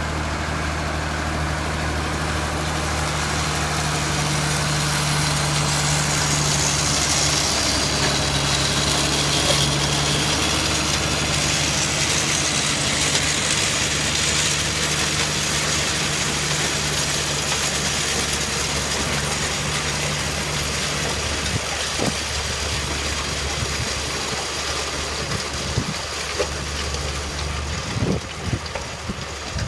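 Rock picker machine running steadily with a loud engine hum and constant mechanical working noise. About two-thirds of the way in the engine note changes, and a few sharp knocks follow near the end.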